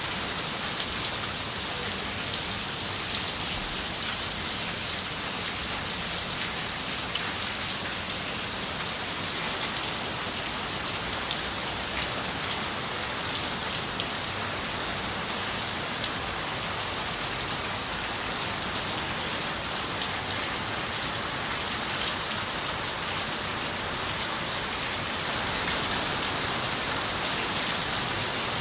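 Steady rain on a window, an even hiss with scattered sharper drop taps; it grows a little louder near the end.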